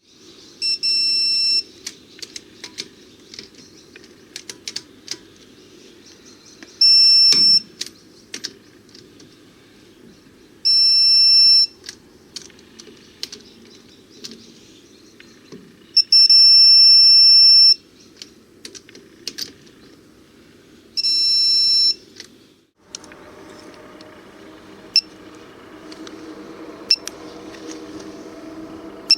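TONE H4DT200 digital torque wrench sounding its electronic buzzer five times, about a second or two each, which signals that the set torque has been reached on each wheel nut. Short sharp clicks come between the beeps. About 23 s in, the background changes to a steady low hum.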